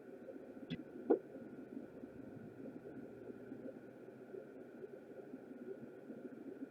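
Steady low hum, like a small fan or bench equipment, with two light clicks close together about a second in.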